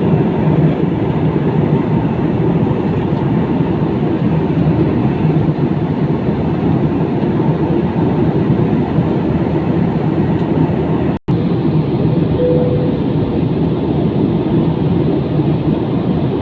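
Steady roar of jet airliner cabin noise in flight, the engines and rushing air heard from inside the passenger cabin. It breaks off for a moment about eleven seconds in, then resumes unchanged.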